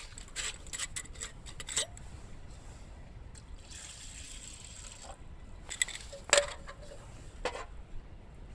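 Camp cookware clinking a few times, with a short pour of liquid lasting about a second and a half in the middle, then more clinks.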